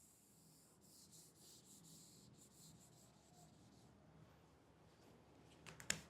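Faint scratching of handwriting, a run of short writing strokes, with a sharp click near the end.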